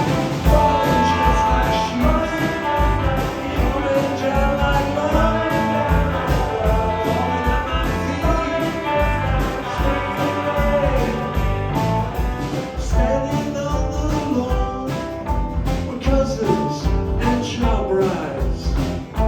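Live rock band playing a song: a steady drum beat under guitars, with a sung vocal line.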